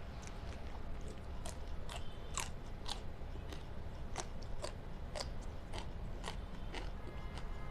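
Close-up mukbang eating sounds: a person biting and chewing food, with crisp, irregular crunches and mouth clicks about one or two a second.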